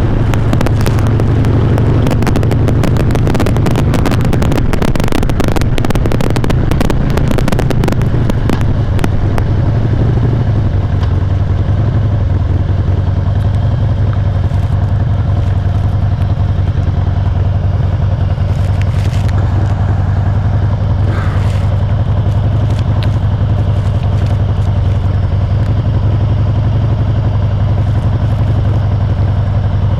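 Harley-Davidson motorcycle's V-twin engine running steadily under light throttle, heard through a helmet chin microphone. Dense crackling distortion over the engine for about the first ten seconds, thinning out after; the rider suspects the audio is clipping, not wind.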